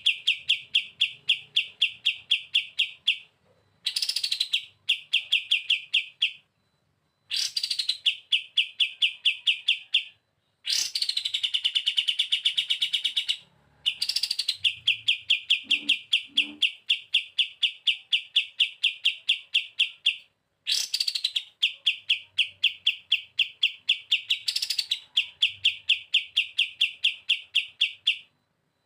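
Kapas tembak bird singing its rapid 'bren' trill: phrase after phrase, each opening with a quick upswept note and running into a long, fast, even trill of about six notes a second, with short pauses between phrases.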